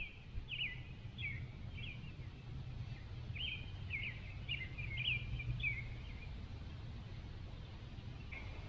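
A songbird singing faintly in two runs of quick sweeping chirps, one at the start and another about three seconds in, over a low steady rumble.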